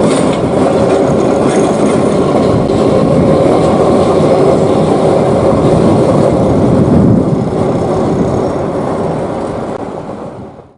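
Train running along the track with a steady rumble and rattle, fading out near the end.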